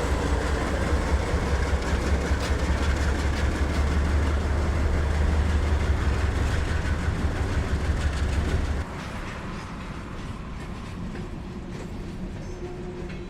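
Freight train rolling past, with a heavy low rumble and wheels clicking over the rail joints. The sound drops suddenly to a quieter rumble about nine seconds in.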